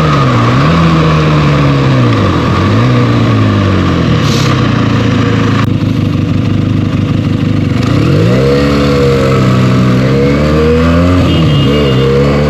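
A Benelli TNT 300's 300cc parallel-twin engine, on its stock exhaust, under way. The revs drop quickly and recover, as on gear changes, near the start and again near the end, and climb hard about eight seconds in, over a steady rush of noise.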